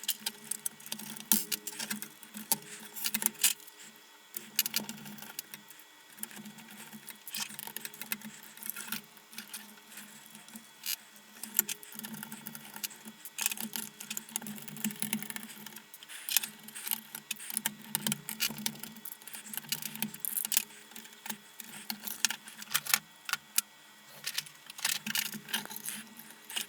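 Many small clicks and light metallic rattles of screws, tools and small parts being handled while an electronic lantern's housing and circuit board are opened up.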